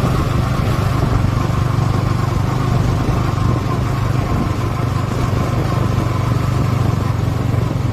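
Motorcycle engine running steadily while riding, a constant low hum with road and wind noise over it.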